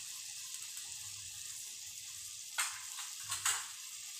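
Thick masala gravy sizzling and bubbling in a kadai, a steady hiss, with three short clatters about two and a half to three and a half seconds in.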